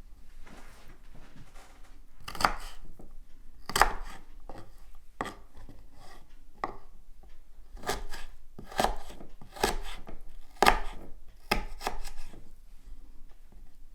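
Knife chopping food on a wooden cutting board, in slow, uneven strokes about one a second, coming a little quicker near the end.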